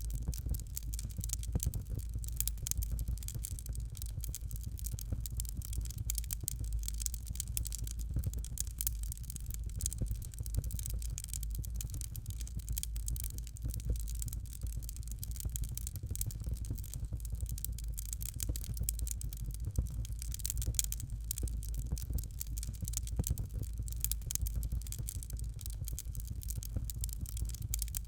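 Fireplace fire crackling steadily: a dense, continuous run of small pops and snaps over a low rumble.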